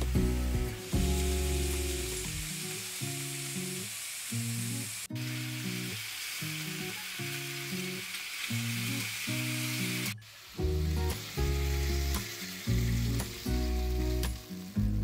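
Food frying in hot fat in a pan: a steady sizzle that starts about a second in and drops away after about ten seconds, over background music.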